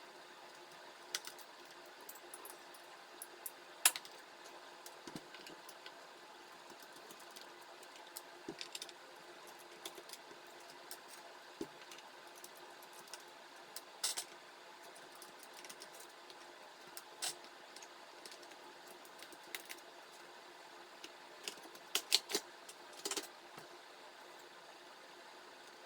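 Scattered small clicks and taps of a screwdriver and small parts being handled on a laptop during disassembly, irregular, with a sharper knock about four seconds in and a quick cluster of clicks near the end, over a faint steady hum.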